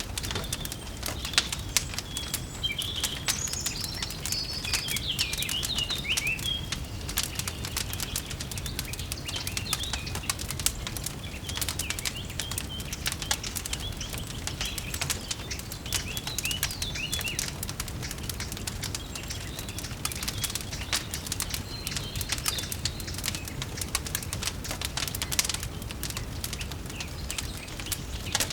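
Small birds chirping and twittering over a steady background of sharp, irregular crackles and a low rumble from a fireplace.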